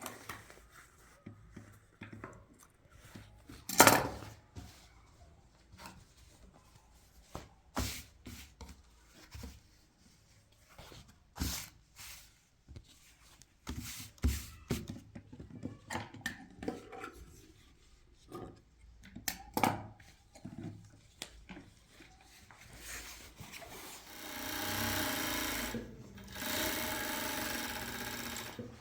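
Scattered knocks, clicks and rubbing of handling work at a sewing table, then a sewing machine stitching in two runs of about two seconds near the end.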